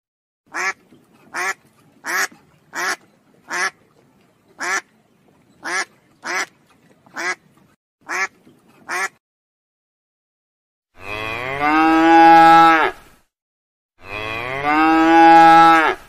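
A duck quacking eleven times in short, evenly spaced calls, then, after a pause, a cow mooing twice in long, drawn-out calls.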